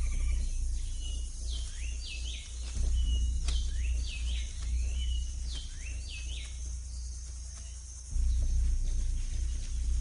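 Tropical rainforest ambience: birds giving short, repeated swooping calls over a steady high insect drone, with a low rumble underneath that swells twice.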